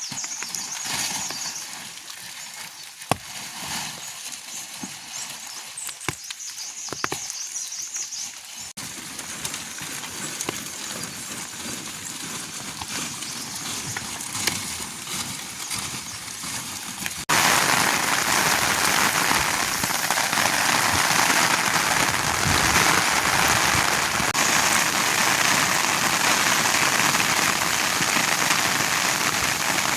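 Rain falling: light at first with a few sharp drips or taps, then suddenly much heavier and louder a little past halfway through.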